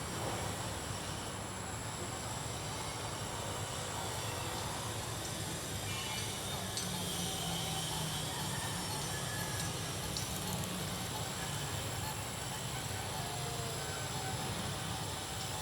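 Steady rumbling hiss with a faint, steady high whine, typical of the two small electric motors of a toy RC Boeing 787 model plane in flight heard from the ground, with wind noise on the microphone.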